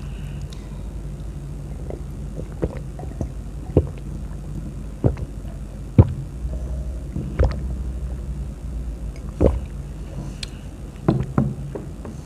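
Close-miked eating sounds from someone chewing: irregular sharp clicks and crunches, about seven in all, over a steady low hum.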